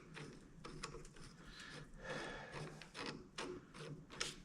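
Faint clicks and light knocks of hand tools and bolts against metal, with a short scrape about halfway, as a crankshaft-pulling setup is worked on an engine block.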